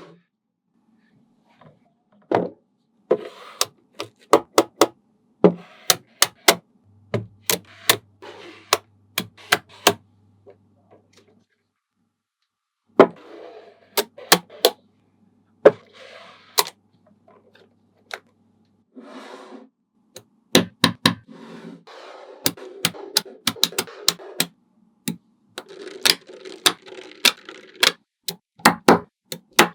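Small magnetic balls clicking sharply together as they are snapped into place, in irregular taps and quick runs, with short stretches of the balls rattling and scraping against each other between the clicks.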